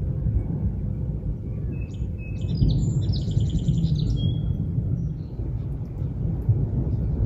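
A songbird sings a short phrase ending in a fast trill, about two to four seconds in, over a steady low rumble.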